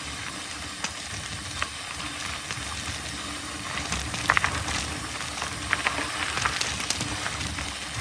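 Mountain bike rolling along a dirt trail: a steady hiss of tyres on the ground with scattered clicks and rattles from the bike, and a louder clatter about four seconds in.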